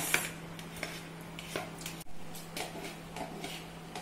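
Soaked basmati rice being tipped into a pot of boiling water, with a few light clinks and knocks of a utensil against the pot over a low steady hum.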